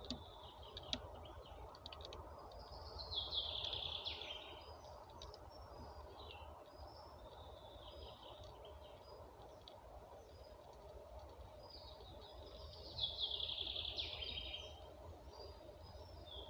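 A songbird singing two song phrases about ten seconds apart, each a quick run of notes falling in pitch and lasting about two seconds, with softer chirps in between, over a steady low outdoor hum.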